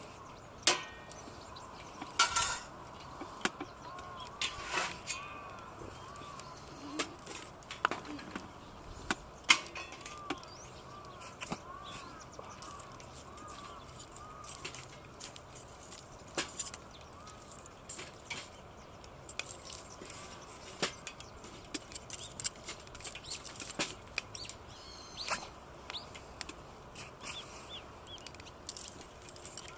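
Scattered sharp clicks and knocks. Over the first half a bird calls a long run of short, evenly repeated notes.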